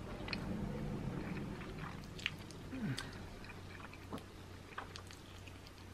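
Chewing and biting into spicy buffalo chicken wings, with scattered small wet clicks and smacks.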